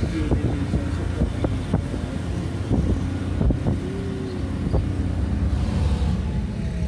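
Car engine running under load on a steep uphill climb, heard from inside the cabin, with a steady low hum. A few short sharp sounds come over it in the first few seconds.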